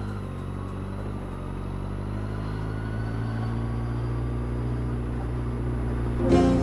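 Motorcycle engine running at low road speed, its pitch and level rising slowly as the bike gathers speed. Music cuts in suddenly near the end.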